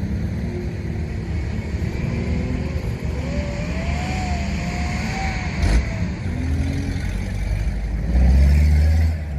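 Off-road vehicle engine running, its pitch rising and falling as it is revved, with a sharp knock a little past halfway and a louder low rumble near the end.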